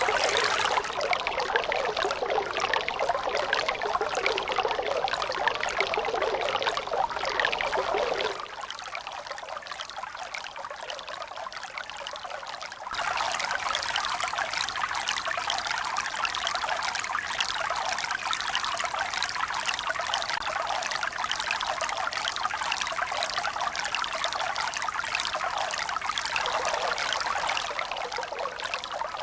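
Steady trickling, pouring water, like a stream. About 8 seconds in it suddenly drops to a quieter, thinner flow, and about 13 seconds in it cuts back up to a fuller rush, like spliced recordings.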